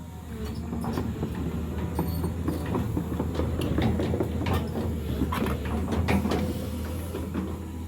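Heavy earthmoving machine's diesel engine running steadily under a dense, irregular clatter of knocks and clanks, busiest in the middle of the stretch.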